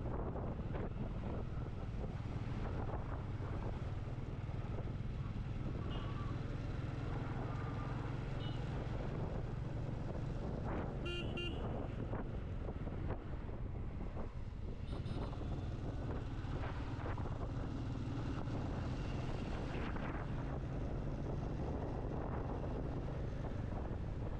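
Motorcycle engine running steadily at cruising speed, with wind rushing over the microphone. A vehicle horn sounds briefly about eleven seconds in.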